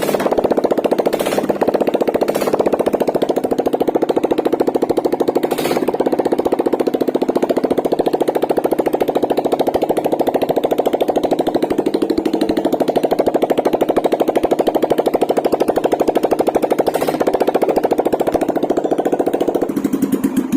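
Royal Enfield Classic 350's single-cylinder four-stroke engine idling steadily without its silencer, a rapid, even stream of exhaust pulses, with a few sharp clicks over it. The engine has just been refitted and is running with its head cover open.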